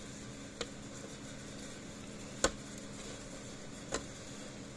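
Three separate sharp clicks of a hand tool on a small nut and bolt as the nut is tightened, the middle one the loudest, over a steady low hum.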